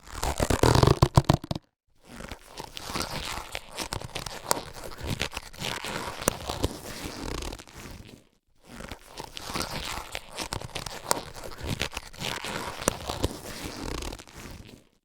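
Latex surgical gloves being handled: stretching, rubbing and crinkling, with many small snaps and clicks. A louder burst in the first second and a half is followed by two long spells of rubbing, with short pauses between them.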